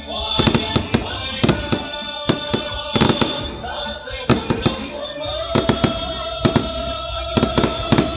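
Aerial fireworks going off in rapid succession: a dense, irregular string of sharp bangs, several a second, as shells launch and burst.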